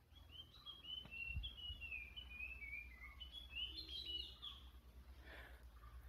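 A bird singing faintly: a run of short notes stepping down in pitch, then a quicker cluster of higher notes about halfway through.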